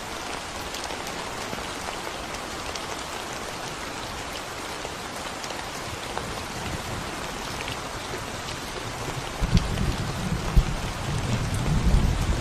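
Steady rain falling on a concrete road, an even hiss with scattered drops ticking. About three seconds before the end a low rumble of thunder sets in and grows louder.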